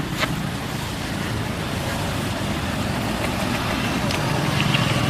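Steady low rumbling background noise, growing slightly louder toward the end, with a few faint clicks.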